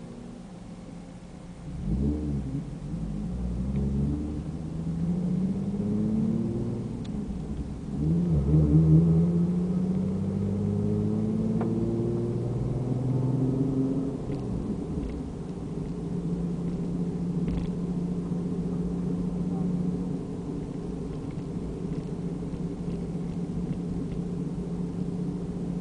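Nissan 350Z's 3.5-litre V6 through an aftermarket Amuse full exhaust, heard from inside the cabin while being driven hard. Revs climb under acceleration about two seconds in, and again more loudly from about eight seconds in, then drop back and hold at a steady pitch through the second half.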